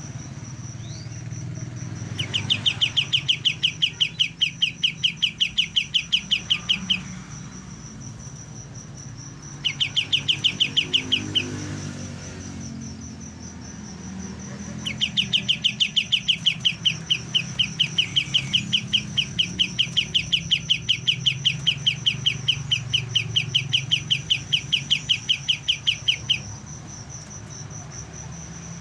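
A young kapas tembak songbird giving long bouts of rapid, evenly repeated sharp chirps, about four or five a second. The bouts are separated by pauses of a few seconds: the young bird's early practice song. A steady high insect-like whine runs underneath.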